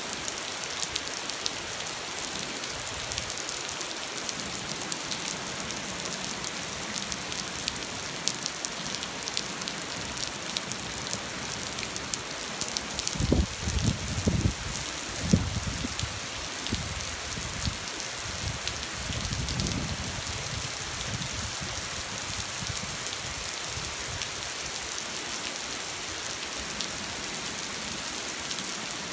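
Steady rain pattering, a dense hiss of small drop ticks. A few low thumps and rumbles break in about halfway through, with a weaker one a few seconds later.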